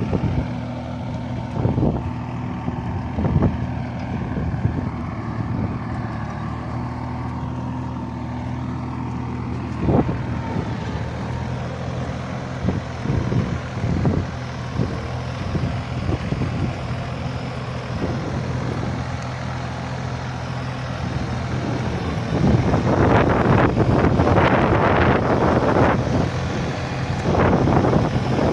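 Simba 30 tractor engine running steadily while pulling a seed drill, with scattered knocks and rattles. About 22 seconds in, a louder rough rushing noise joins in.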